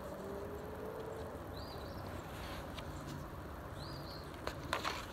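Faint steady outdoor background hiss with a few short, faint bird chirps about every two seconds, and a few light clicks near the end.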